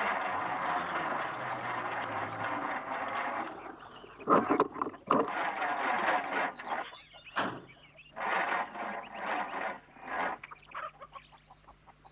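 An old car's engine running steadily for the first few seconds, followed by a string of short, separate louder sounds.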